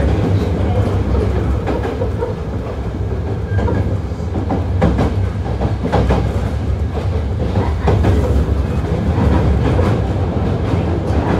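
Hankyu 8000 series electric train running, heard from inside a passenger car: a steady low rumble of wheels on rail, with the wheels clacking over rail joints now and then.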